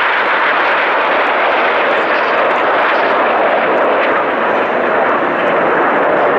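Jet aircraft flying by: a loud, steady rushing engine noise that holds level throughout.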